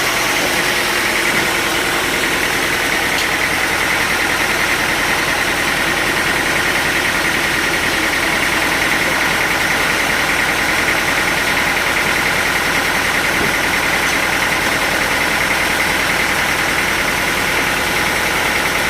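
Sawmill machinery running steadily: a constant mechanical drone with an unchanging whine.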